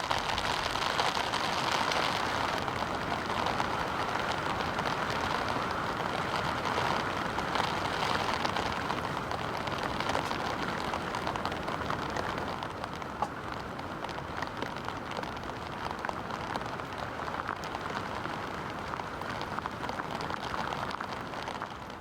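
Heavy rain falling steadily on a camping shelter's tent and tarp fabric, an even patter that eases a little in the second half.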